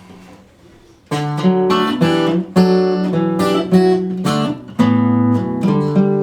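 Acoustic guitar starting an intro about a second in: chords strummed at a moderate pace, each ringing on until the next.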